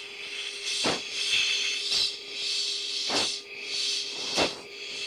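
Short, forceful breaths into an oxygen-mask microphone about once a second, four times, with hissing air between them and a steady hum under it: anti-G straining breathing during a high-G pull.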